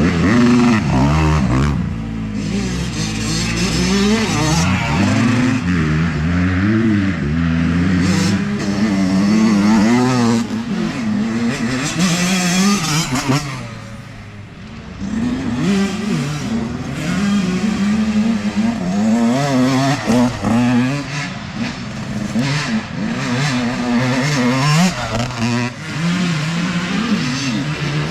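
Dirt bike engine revving hard, its pitch rising and falling as the throttle is worked on and off through the trail. It drops away for about a second about halfway through, then picks up again.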